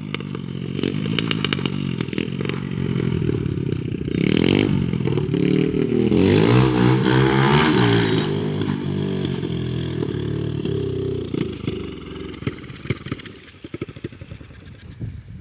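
2015 Apollo 125cc pit bike's single-cylinder four-stroke engine, running through a straight pipe with no muffler. It revs up in blips, then loses power and sputters out in uneven pops near the end as it runs out of gas.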